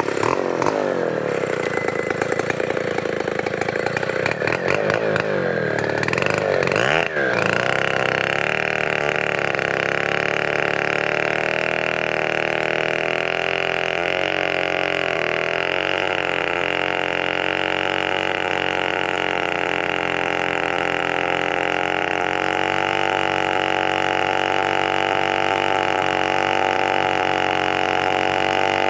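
Chainsaw engine running. Its pitch wavers for the first several seconds, then it revs up sharply about seven seconds in and holds a steady high speed.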